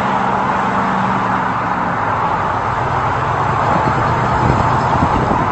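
Boeing 747's jet engines running at taxi power: a steady roar with a low hum beneath it that drops in pitch about two seconds in.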